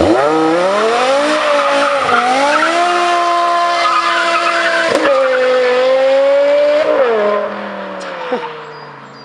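BMW E60 M5's V10, with a Meisterschaft GTC exhaust and catless headers, revving hard as the rear tyres spin and squeal in a burnout. The revs jump up at once, hold high with two short dips, then fall away about seven seconds in.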